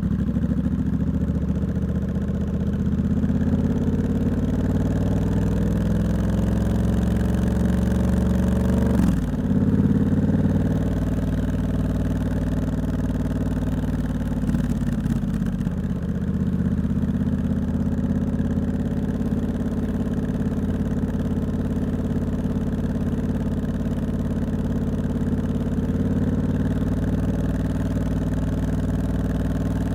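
Triumph Scrambler 1200X's 1200 cc parallel-twin engine running through a loud aftermarket Hitchcox exhaust. The revs rise for about nine seconds, drop sharply as the throttle shuts or the gear changes, then hold fairly steady. The recording clips slightly.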